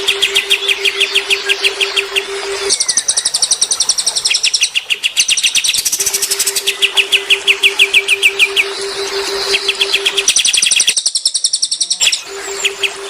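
Songbirds singing long trills of fast repeated chirps that change pattern every few seconds, over a steady low hum that cuts in and out.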